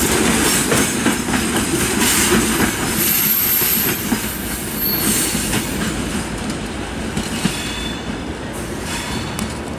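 Freight train of open-top gondola wagons rolling past, steel wheels clattering over the rail joints, with a faint wheel squeal near the end. The sound fades steadily as the last wagons draw away.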